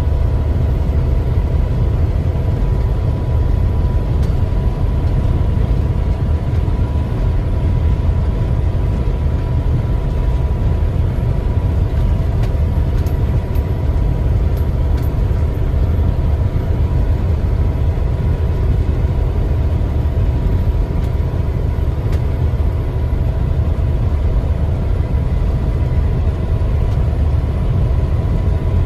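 Semi-truck running on the road: a steady low rumble of engine and road noise, with a faint steady high tone over it.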